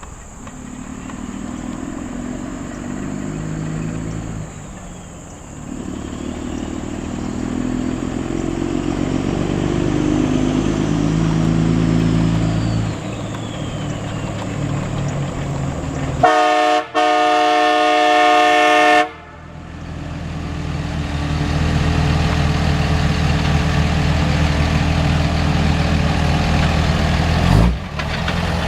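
Dodge diesel pickup's engine running and revving up and down, then its custom train horn blasts a loud chord, a short toot followed after a brief break by a longer blast of about two seconds. The engine keeps running after the horn, and there is a single knock near the end.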